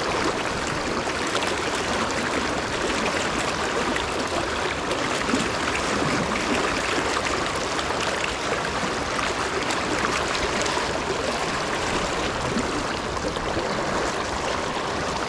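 River water flowing steadily over the riverbed, an even rushing with no breaks.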